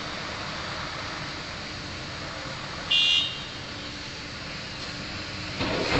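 Heavy machinery running steadily: the excavator and tipper-truck engines. About halfway through there is one short, high-pitched horn toot. Near the end the engine noise briefly swells louder.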